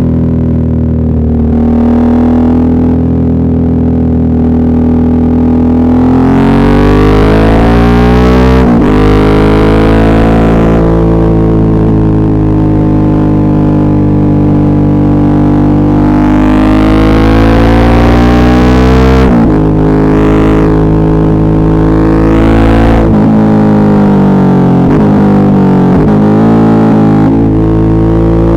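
Suzuki V-Strom 650's V-twin engine under way. It runs steadily at first, then climbs in revs through the gears with short breaks at each upshift. Later the revs fall away over a few seconds before picking up again.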